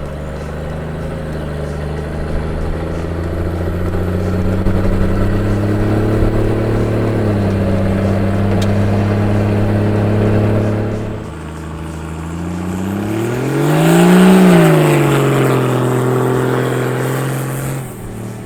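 Toyota Land Cruiser 80's 1HD-FT 4.2-litre straight-six turbo diesel running through a new 3-inch stainless side-exit exhaust. It holds a steady note, eases off about eleven seconds in, then revs up once and falls back down.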